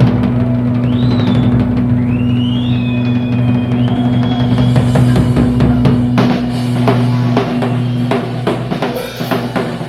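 Live blues-rock band ending a song on a held low chord. Electric guitar bends slide up and down in the first few seconds, then a fast run of drum-kit fills and cymbal crashes builds toward the close.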